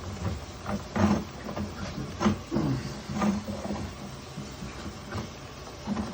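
Sewer inspection camera and its push cable being fed down a clay sewer line: irregular knocks and scraping, roughly one a second, over a low steady hum.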